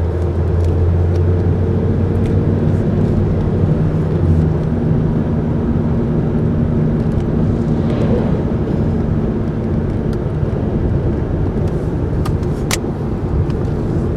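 Road and engine noise inside a moving car's cabin at highway speed: a steady low rumble of tyres and engine, with a low hum that drops away about four seconds in. A few light ticks sound, one sharper near the end.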